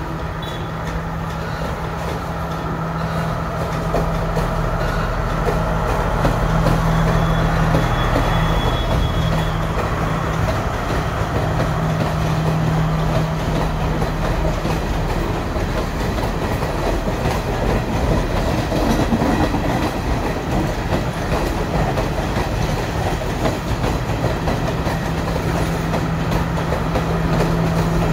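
Sri Lanka Railways Class S12 diesel multiple unit passing close by: a steady diesel engine hum over the rumble of wheels on the track. It grows louder over the first few seconds as the train nears, and the engine hum comes back strongly near the end as the rear power car passes.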